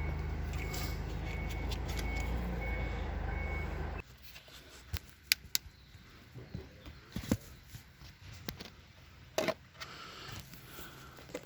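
A vehicle engine running with a short high beep repeating about twice a second, which cuts off abruptly about four seconds in. After that come scattered small clicks and knocks of handling.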